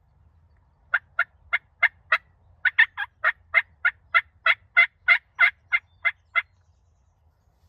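A long run of sharp turkey yelps, about three a second, starting about a second in and stopping after about six seconds.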